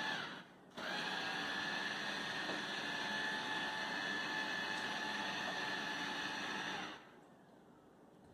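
eufy RoboVac 11S robot vacuum running, its motor and suction fan giving a steady whine. It drops out briefly near the start, resumes, then cuts off about seven seconds in.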